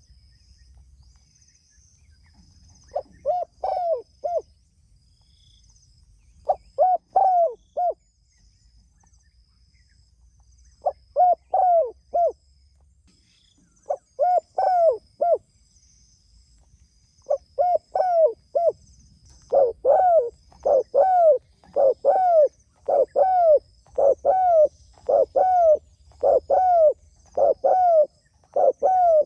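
Spotted dove (tekukur) cooing: short phrases of three or four coos every few seconds, then, from about two-thirds in, a steady run of single coos a little under a second apart.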